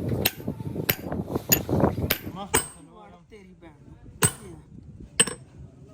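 Hammer striking steel, several sharp ringing blows: four evenly spaced in the first couple of seconds, then two more spaced out, over low workshop clatter.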